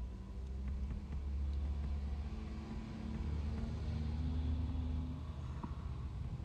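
Car engine running, heard from inside the cabin as a steady low rumble with a faint hum that steps up slightly in pitch around the middle.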